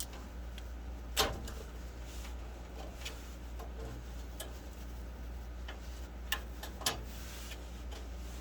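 A few sharp plastic clicks and taps as furnace control-board mounting clips are pinched and pushed into place, the loudest about a second in and two more near the end, over a steady low hum.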